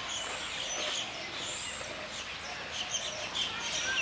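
Birds chirping and whistling: many short, high calls overlapping over a steady background hiss.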